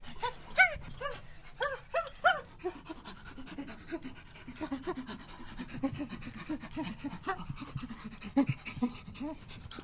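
Dog, likely a puppy, panting and letting out many short whining calls, a few higher-pitched ones in the first couple of seconds, then a quick run of short low ones.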